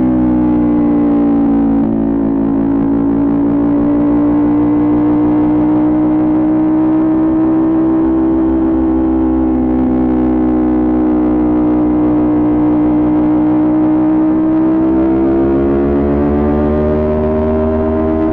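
Kawasaki Ninja 400's parallel-twin engine and exhaust under way at fairly steady revs, easing off slightly at the start and building revs again near the end.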